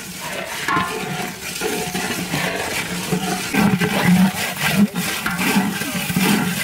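Spices, green chilies and garlic frying in oil in a large cooking pot, sizzling and bubbling unevenly as a long ladle stirs them.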